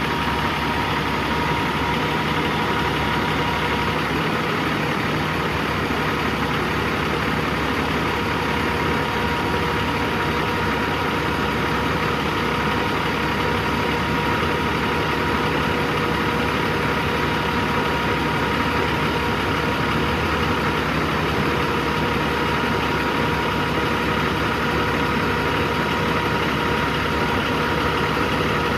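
A 15-litre six-cylinder diesel truck engine idling steadily.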